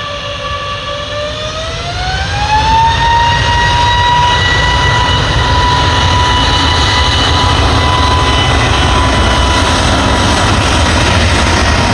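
Jet airliner's engines spooling up to takeoff power: a whine rises in pitch over a second or two, then holds steady as the engines run at full thrust over a heavy rumble. The sound grows louder as the whine climbs and stays loud afterwards.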